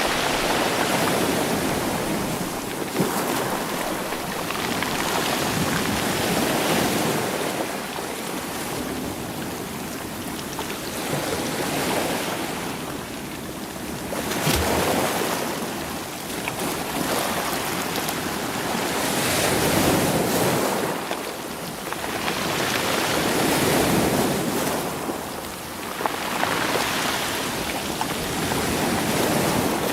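Sea waves surging in and draining back over rocks and rolling stones, swelling and easing every four to six seconds. A couple of sharp clicks stand out, about three seconds in and near the middle.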